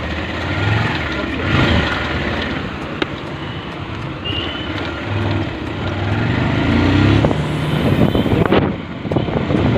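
Motorcycle engine running while riding on the road, its low note rising and falling.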